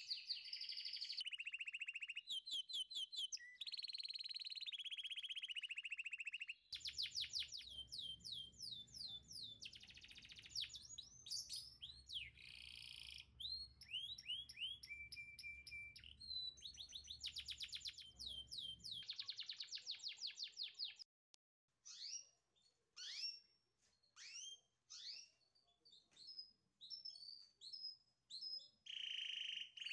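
Birds singing: fast trills and chirps. About two-thirds through they thin out to single quick rising chirps, roughly one a second.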